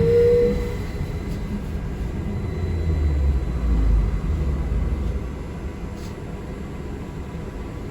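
Low, steady rumble of a city transit vehicle heard from inside while it drives, swelling a few seconds in. There is a short steady tone at the very start.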